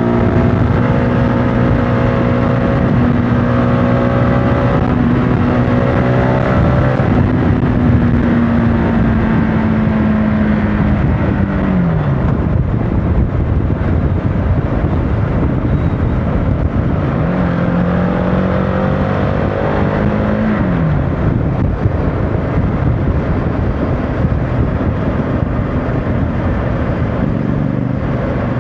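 CFMOTO motorcycle engine running at steady cruising revs over a constant rush of wind and road noise. Its note drops about twelve seconds in as the throttle closes, rises again briefly around seventeen seconds, and falls away again about twenty-one seconds in.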